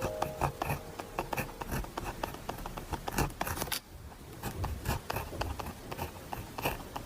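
Pen writing on paper: quick scratching strokes and light taps at an uneven pace, with a short lull about four seconds in.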